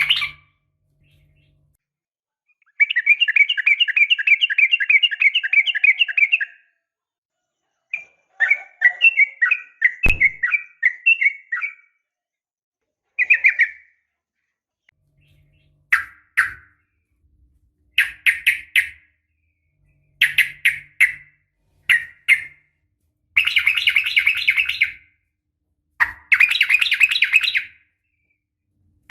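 A female yellow-vented bulbul (trucukan) calling to a male in bursts of rapid chattering notes. There is one long rattle of several seconds, then shorter phrases and bursts with brief pauses between. A single sharp knock comes about ten seconds in.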